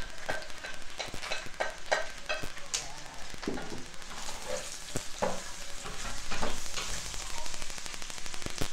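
Pork pieces sizzling in a pot while a wooden spatula scrapes a plate clean and stirs the meat, with frequent sharp clicks and taps of the spatula against the plate and pot.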